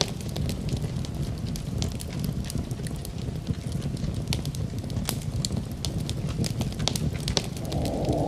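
Wood fire crackling in a fireplace: irregular sharp pops and snaps over a steady low rumble of the burning. Near the end a band of steady noise swells in.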